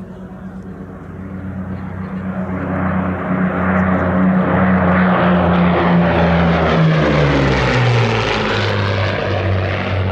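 De Havilland Mosquito's two Rolls-Royce Merlin V12 engines on a fast, loud flypast. The engine note swells over the first few seconds, then drops in pitch as the aircraft passes, about seven seconds in.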